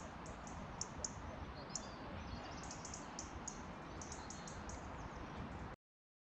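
Small birds chirping, many short high chirps over a faint steady hiss, which all cut off suddenly about a second before the end.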